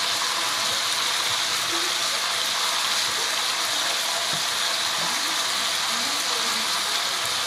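Chicken breasts sizzling steadily in oil in a frying pan.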